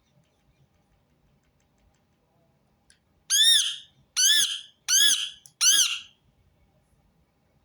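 Rose-ringed (Indian ringneck) parakeet giving four loud, harsh squawks in quick succession, each rising and falling in pitch.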